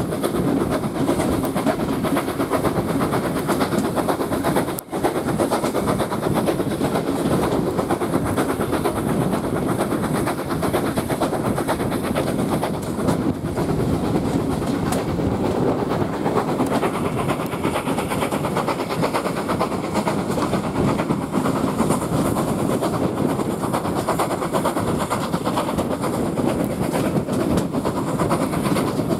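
Steam-hauled passenger coaches running along the line, heard from an open carriage window: a steady rumble and rattle of wheels on rails mixed with wind buffeting the microphone. The sound drops out for an instant about five seconds in.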